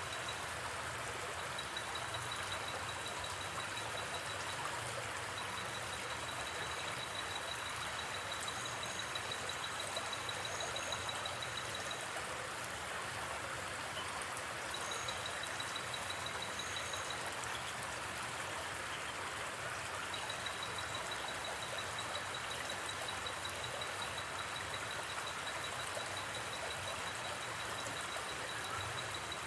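River water flowing steadily in an even rush. A high, fast-pulsing trill comes and goes in long stretches over it, and a few short, even higher chirps sound about a third and halfway in.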